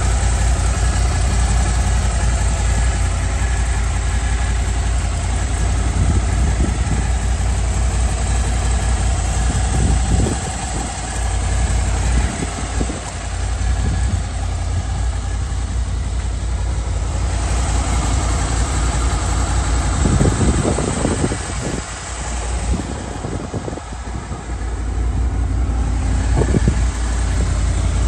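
Honda VFR800's V4 engine idling steadily.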